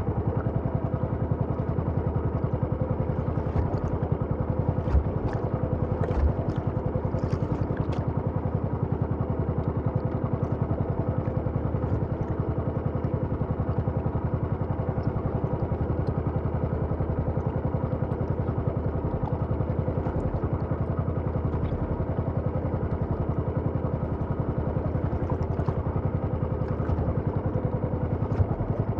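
Small boat engine running steadily at an even speed, with a few light knocks and clicks a few seconds in.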